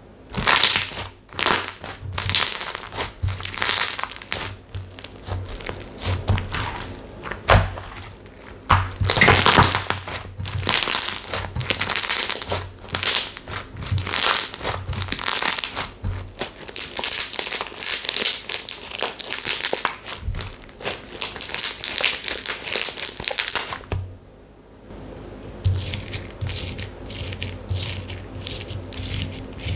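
Hands pressing, stretching and squeezing slime, making dense crackling and crinkling pops in quick succession; the crackling drops away about 24 seconds in and comes back softer.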